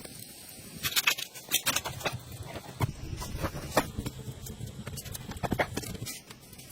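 Irregular light clicks and taps with soft rustling over a low rumble.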